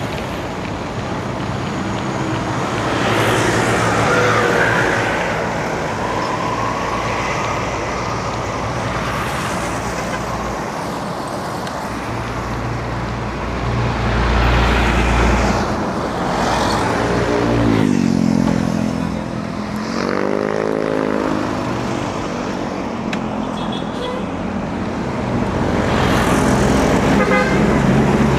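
Urban road traffic heard from a moving bicycle: cars and other motor vehicles passing one after another. About two-thirds of the way through, one vehicle's engine note drops and then rises again.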